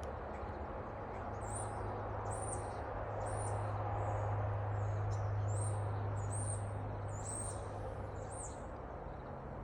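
A small bird chirping, short high notes repeated about once a second, over a steady low drone that swells in the middle.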